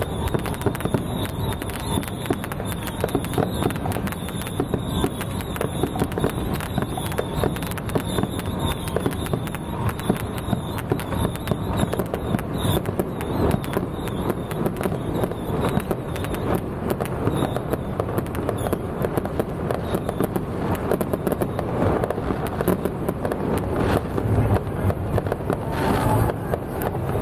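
Fireworks going off in a dense, unbroken crackle of many small bangs.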